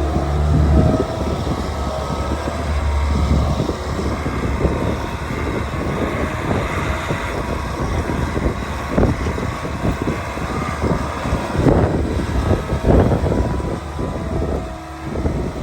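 Bobcat S66 skid steer's diesel engine running, with a steady hum for the first few seconds. After that come many irregular knocks and rattles over the engine as the machine works.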